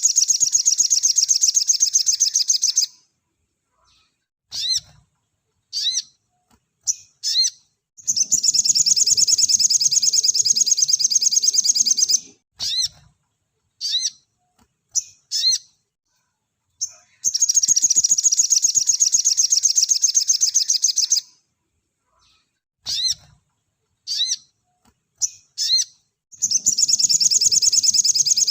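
Sogon (little spiderhunter) singing a rapid, dense high trill in bursts of about four seconds, repeated roughly every nine seconds, with short sharp down-sweeping call notes between the bursts.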